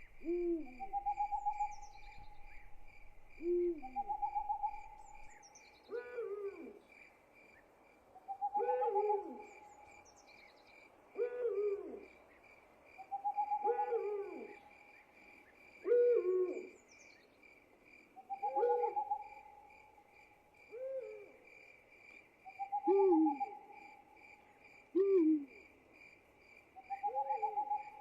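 Night soundscape: an owl hooting over and over, about one call every two seconds, over a steady, pulsing cricket trill. A few brief high falling chirps come in now and then.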